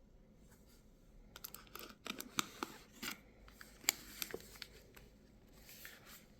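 Cardboard and paper packaging of a chocolate advent calendar being handled: a run of crinkles, taps and short tearing sounds in the middle, then it settles.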